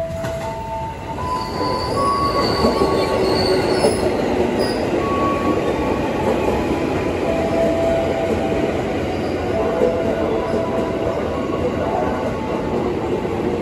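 JR 205 series electric commuter train pulling into the platform and running past at close range: a loud steady rumble of wheels on the rails that builds about a second in, with high wheel squeals from about one to five seconds in.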